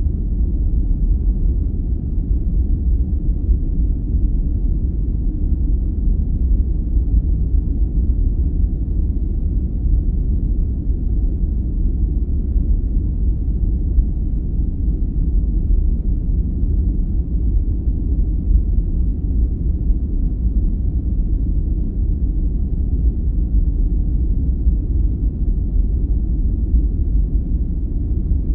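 Steady, deep, muffled noise of a sleep-aid noise track, weighted heavily to the bass like brown noise rather than hissy white noise; it does not change.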